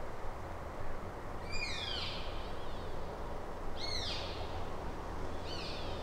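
A bird calling three times, a couple of seconds apart: each a short, high call that arches over and falls in pitch, over a steady low background rumble.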